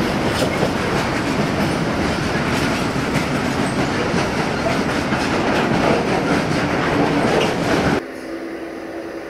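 Freight train wagons rolling past, their wheels clattering over the rail joints in a loud, continuous rattle. About eight seconds in, the sound cuts off abruptly to a much quieter background with a faint steady hum.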